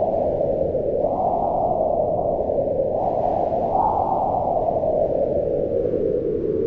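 Strong wind howling in gusts, a steady rush whose pitch rises and falls every second or two.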